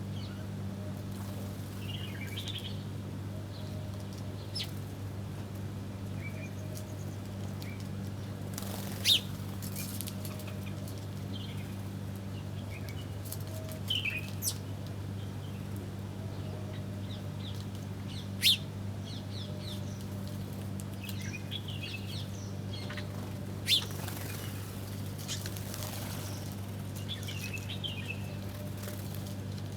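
Small birds chirping in short, scattered calls while feeding, with three sudden loud flutters of wings about 9, 18 and 24 seconds in, over a steady low hum.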